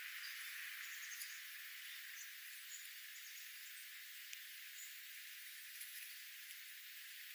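Faint outdoor nature ambience: a steady hiss with a few scattered, faint high-pitched bird chirps.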